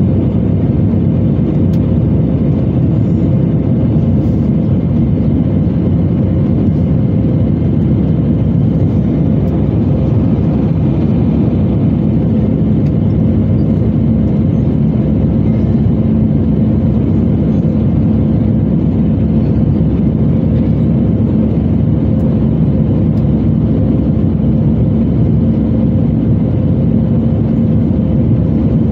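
Steady engine noise inside the cabin of an Airbus A320-214, its CFM56-5B turbofans running at a constant setting: an even low rumble with two steady humming tones over it.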